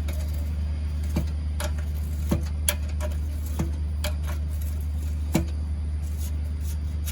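About seven sharp metallic clicks and taps at irregular intervals, from a spanner working the nuts on a petrol generator's engine mountings, over a steady low hum.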